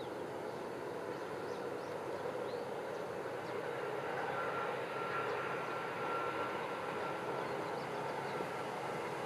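Distant Shinkansen train running along an elevated viaduct: a steady rushing noise that swells about four seconds in, with a faint high whine for a few seconds.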